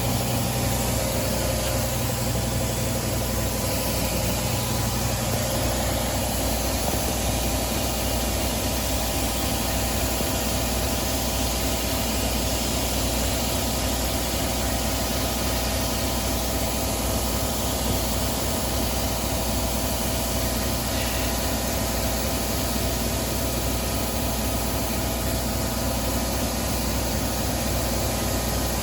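Lawnmower engine running steadily at an even speed.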